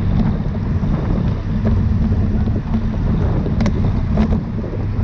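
Wind buffeting the microphone of a camera on a bicycle moving at race speed: a steady low rumble, with a couple of faint clicks past the middle.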